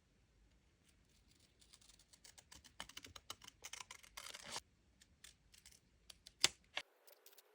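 Desk handling of paper and stationery: a run of light clicks and taps with a short rustle of paper, then a sharp click and a second, softer one.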